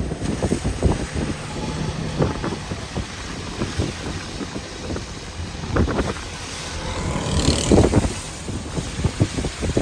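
Wind buffeting the microphone in irregular gusts, a low rumbling noise that swells and drops, loudest near the end.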